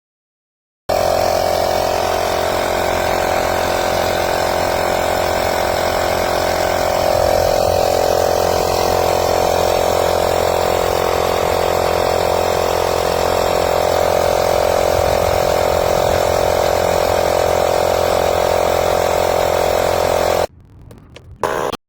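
Small air compressor motor running steadily with a constant buzzing drone, cutting off about twenty seconds in, followed by a brief shorter sound.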